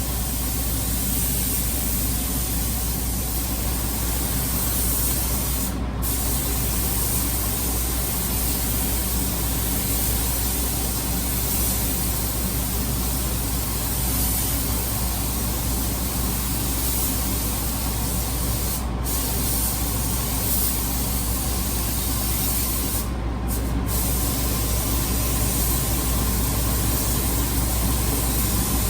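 Automotive paint spray gun spraying single-stage paint on compressed air: a steady loud hiss over a low hum, with the trigger let off for a moment about 6 seconds in, near 19 seconds and twice near 23 to 24 seconds.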